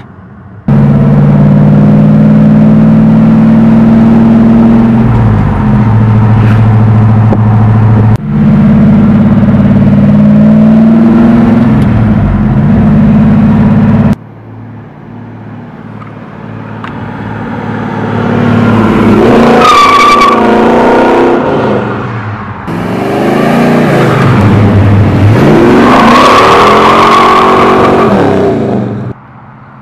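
1966 Pontiac GTO's V8 accelerating hard in several takes joined by abrupt cuts: two loud, steady pulling runs, then two revving passes that rise and fall, with a high tyre squeal as the rear wheels spin on a dusty road.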